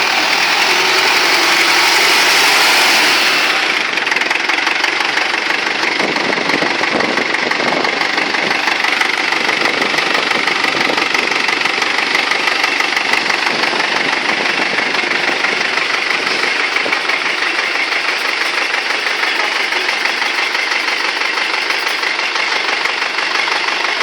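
Universal 650 tractor's diesel engine running, louder for the first three or so seconds, then easing to a steady idle.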